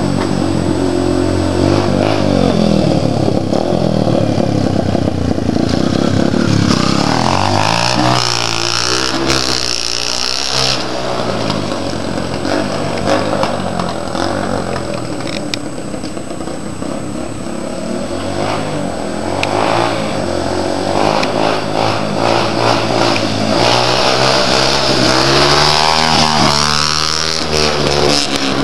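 2005 Yamaha TT-R125's single-cylinder four-stroke engine, running with the baffle pulled from its stock exhaust, revving hard and easing off as the dirt bike rides past. Its pitch rises and falls several times, with a quieter stretch in the middle.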